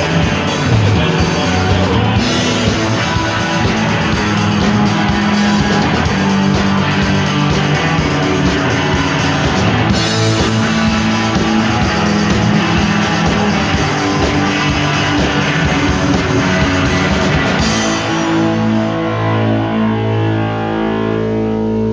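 Rock music with guitar. About eighteen seconds in, the full band drops away to a held, ringing chord whose treble fades out.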